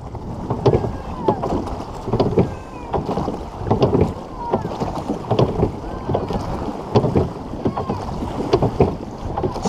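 Crew rowing boat under way: oars knocking in their oarlocks and blades catching and splashing in the water, a repeated knock-and-splash about once a second over wind rushing on the microphone.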